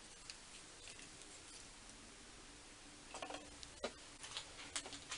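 Quiet room with a scatter of small clicks and taps in the second half, from a measuring tool being handled and set while a bored part is checked for size.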